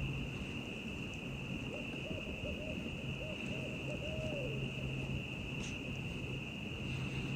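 Barred owl calling: a run of about three seconds of rhythmic hoots, the last one falling in pitch. A steady high insect trill goes on behind it.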